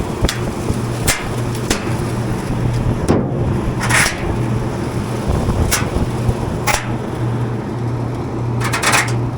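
Belt-driven rooftop fan unit running again with a steady, pulsing hum after a new AX28 V-belt has been fitted. Several short knocks and rustles come through over it.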